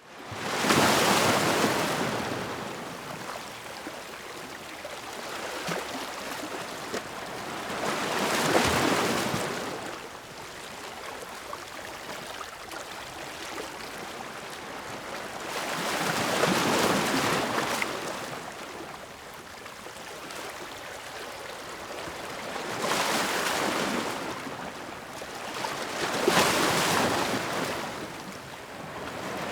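Ocean waves breaking and washing in. About five loud surges come every six to eight seconds, with a steady hiss of water between them.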